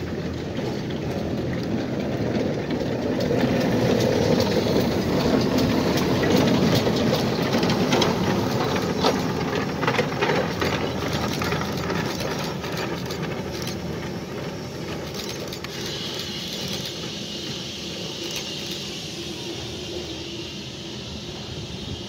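A geared steam locomotive passing on the rails, its chuffing and rail clicks growing to their loudest about a third of the way in and then fading as it moves off. A higher hiss, likely steam, comes in during the last third.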